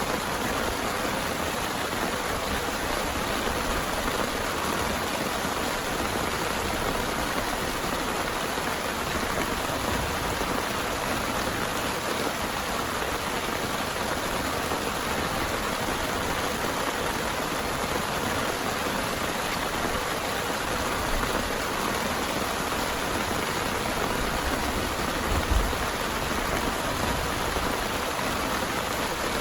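Heavy rain falling steadily, an even hiss with no let-up. A brief low thump stands out near the end.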